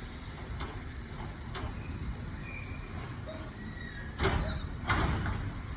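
Garbage truck engine running with a steady low rumble, and two loud bangs about half a second apart near the end.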